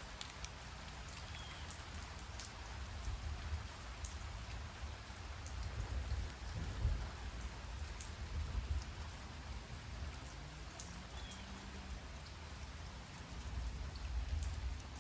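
Light rain falling steadily, with single drops ticking sharply now and then. Under it a low rumble swells in the middle and again near the end.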